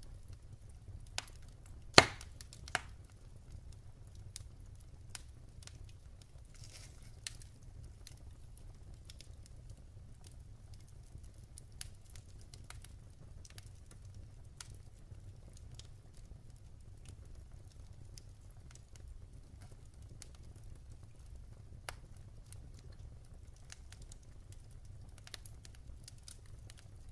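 Wood fire burning in a fireplace, crackling with scattered small pops and one sharp, loud pop about two seconds in, over a low steady rumble.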